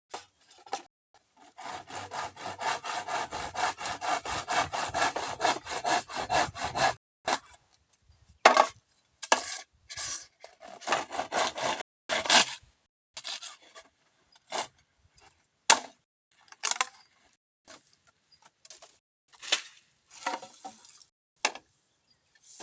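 Bamboo being sawn by hand: a fast run of rasping saw strokes for about five seconds, then slower, separate strokes.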